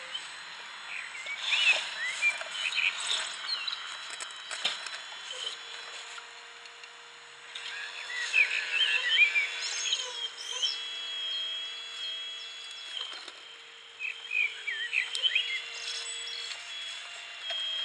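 Birds singing in three short spells of quick warbling phrases over the steady whine of a radio-controlled model Liebherr R944B excavator's electric motors as it digs and lifts its bucket.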